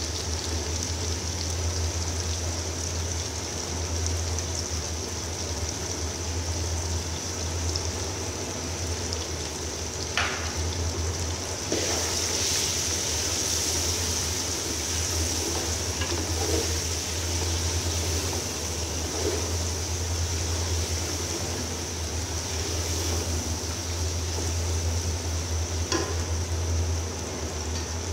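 Chicken with ginger, garlic and ground spices stir-frying in an aluminium pot: a steady frying hiss, with a wooden spoon scraping and knocking against the pot a few times, over a steady low hum.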